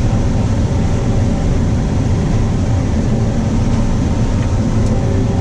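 Combine harvester running steadily while combining corn, heard from inside the cab: a constant low drone with faint steady tones over it.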